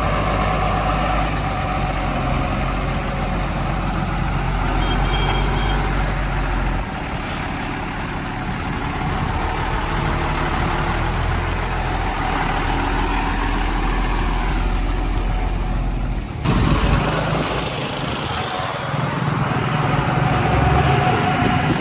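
Heavy diesel vehicle engine running steadily, the sound changing abruptly about sixteen seconds in.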